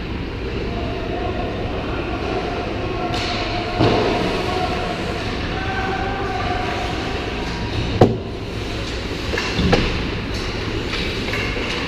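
Steady rumble of an ice hockey game in a rink, with faint voices, broken by three sharp knocks, the loudest about eight seconds in.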